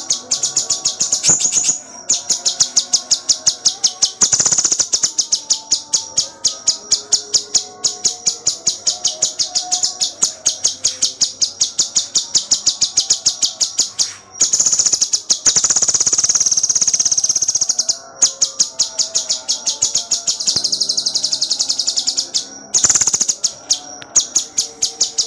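Cucak cungkok songbird singing in long rapid-fire runs of high, evenly repeated notes, about five a second, with brief breaks between runs.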